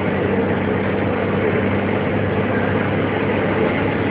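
Scania truck's diesel engine running at a steady pace, a constant low hum with road and cab noise, heard from inside the cab.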